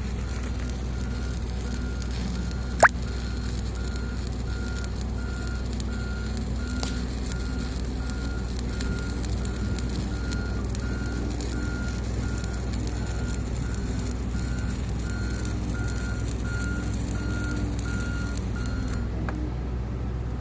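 A heavy machine's back-up alarm beeping steadily, about three beeps every two seconds, over the low steady rumble of an engine running; the beeping stops near the end. One sharp click about three seconds in.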